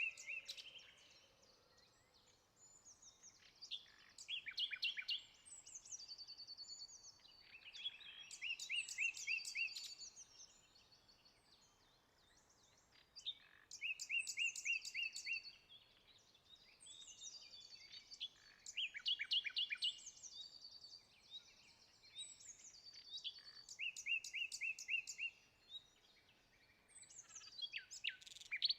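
Songbird singing outdoors, one short song of trills and quick high notes about every five seconds, over faint background hiss.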